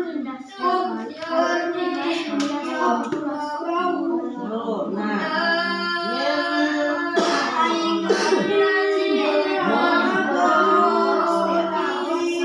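Several children chanting Quran recitation aloud together in a sing-song, their voices overlapping.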